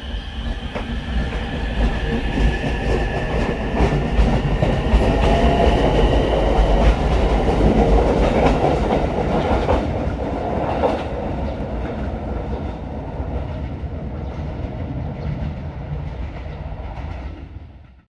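Ichibata Electric Railway 7000 series electric railcar running on the line, wheels clicking over the rail joints over a steady rumble with a thin whine above it. It grows louder toward the middle, eases off, and cuts off suddenly near the end.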